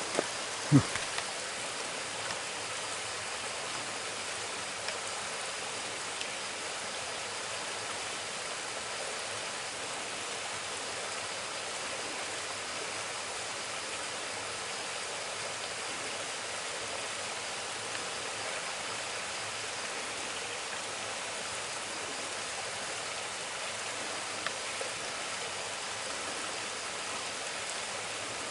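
Mountain stream rushing over rocks, a steady even rush of water. A brief loud thump about a second in.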